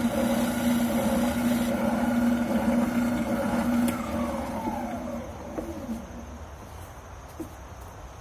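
Wilton oscillating sander's electric motor running with a steady hum. About four seconds in it is switched off with a click, and its pitch falls as the motor spins down over about two seconds.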